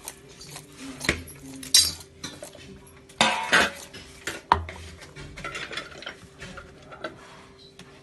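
Metal kitchen utensils and cookware clinking and scraping: several sharp knocks and clatters over a steady faint hum.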